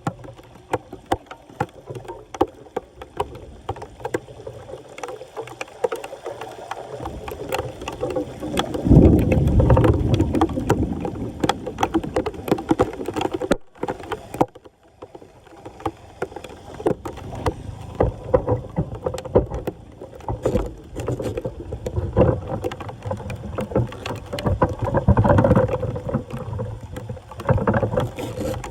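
Floodwater splashing and sloshing around a blocked storm drain, with many sharp knocks and scrapes, swelling louder about nine seconds in and again near the end.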